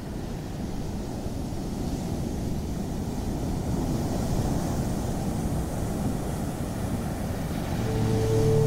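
Ocean surf washing on a beach: a steady low rush that swells slowly. Near the end a sustained music drone of held tones comes in over it.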